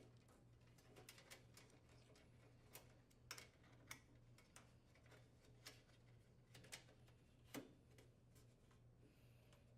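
Faint, scattered clicks and taps of spark switch harness wires being pressed into the range's plastic wire retainers, about a dozen at uneven intervals with one sharper click near the end, over a low steady hum.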